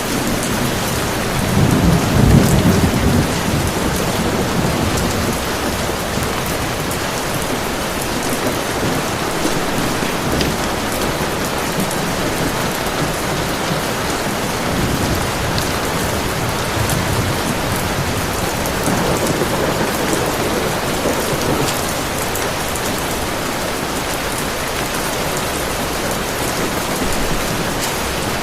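Heavy rain falling steadily, with low rumbles of thunder. The rumble is loudest about two seconds in and comes back more faintly about two-thirds of the way through.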